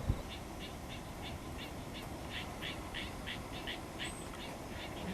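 A bird calling in a rapid series of short, repeated notes, about three a second, over steady low background noise.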